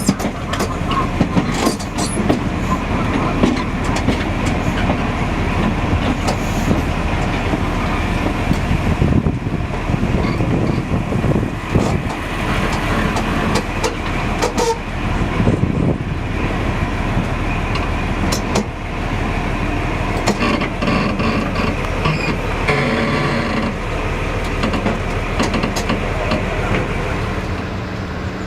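Train running along the line: a steady rumble of wheels on rails, broken by frequent irregular clicks and knocks.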